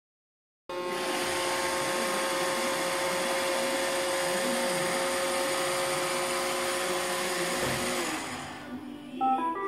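iRobot Roomba 650 robot vacuum running: a steady motor whine over a hiss of suction and brushes, starting abruptly just under a second in and fading out about eight seconds in. A short run of stepped tones follows near the end.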